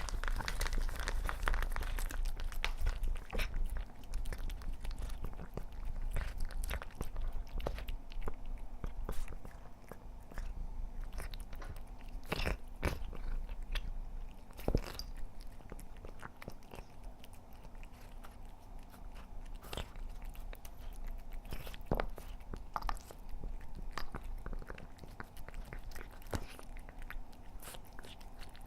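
A cat eating, with irregular crunching and chewing, busier in the first several seconds and more sparse after.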